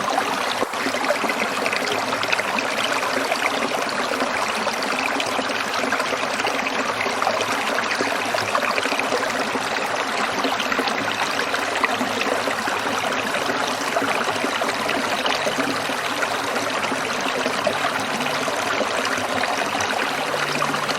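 Stream water trickling over rocks in a steady, even babble.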